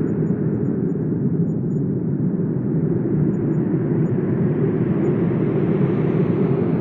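Steady rushing wind, a deep, even roar carrying most of its weight low, growing a little brighter and hissier in the second half.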